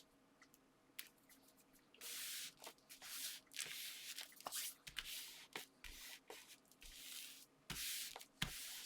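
Paper and card rustling and rubbing as layered card pieces are handled and pressed into place, with small taps and clicks; it starts about two seconds in and comes in several rustles of about a second each.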